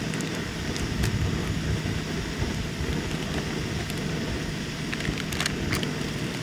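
A steady rushing noise under a faint low hum, with scattered light clicks, at a constant level throughout.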